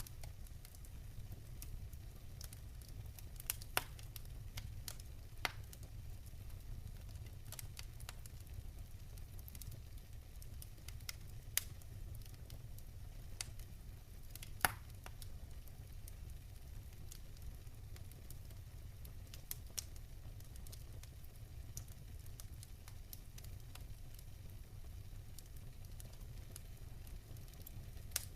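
Wood fire burning in a fireplace: scattered, irregular crackles and sharp pops over a steady low rumble, the loudest pop about fifteen seconds in.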